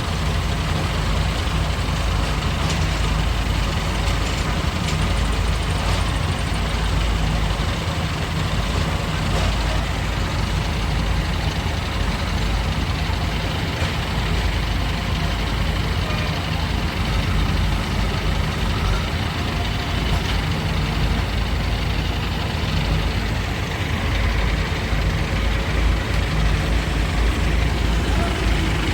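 Heavy diesel engines of Hydra pick-and-carry cranes running steadily, a low drone with no clear revving or stops.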